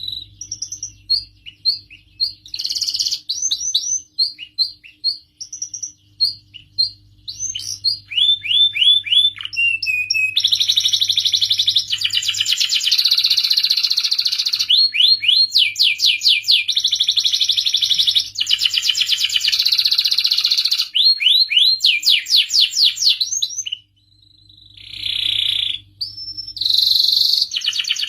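Domestic canary singing a long song: separate chirps and gliding whistled notes at first, then from about ten seconds in long runs of very fast rolling trills, with a short break near the end. A faint steady low hum runs underneath.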